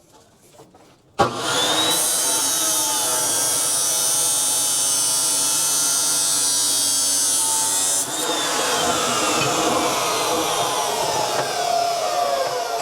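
Gas cutting torch cutting steel angle iron: it starts abruptly with a pop about a second in, then hisses steadily and loudly, changing in tone about eight seconds in.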